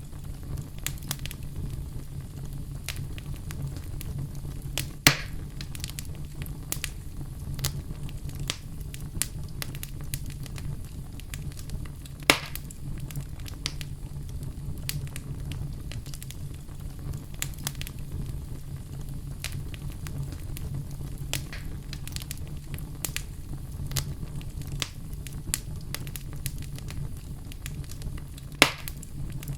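Campfire crackling: a steady low rumble of burning wood with frequent small snaps, and three louder pops spread through, one about five seconds in, one around twelve seconds in, and one near the end.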